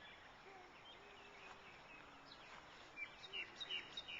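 Birds chirping and calling over a faint steady hiss, the chirps coming thick and fast in the last second or so.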